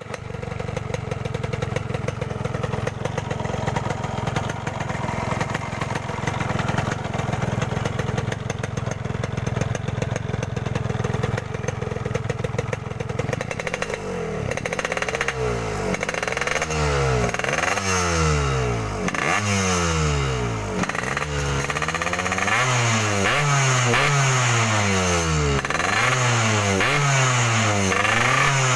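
Yamaha RX-King two-stroke single-cylinder motorcycle engine running through an aftermarket Boban C32 exhaust, held at a steady idle for about the first half, then revved in repeated quick throttle blips about once a second, the pitch rising and falling with each.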